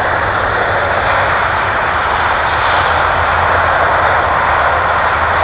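Electric motor and propeller of a ParkZone P-51 Mustang radio-controlled model plane in flight, giving a steady, even drone.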